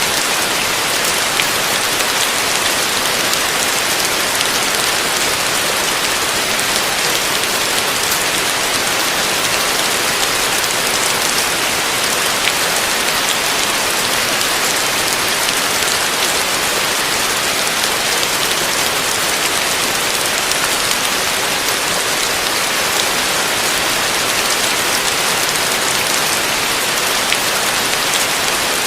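Heavy rain falling steadily, a dense even hiss of rain on surfaces with scattered individual drop taps.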